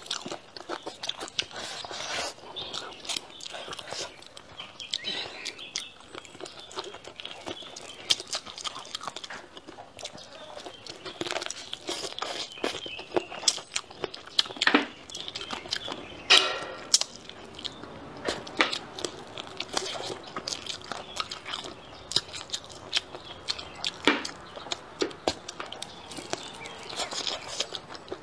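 A person eating: chewing and biting food, with many irregular wet mouth clicks and smacks.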